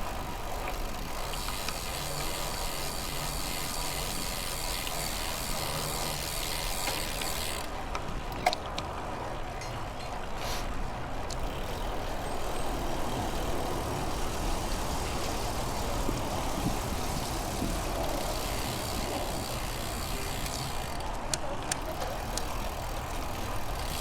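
Steady rolling and wind noise of a bicycle ride, with a single sharp click about eight seconds in.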